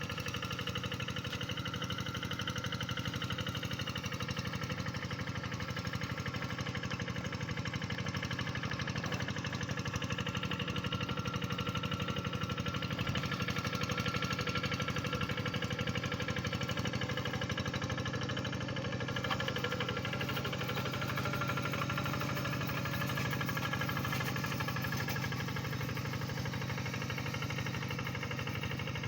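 Tractor engine running steadily with a knocking beat.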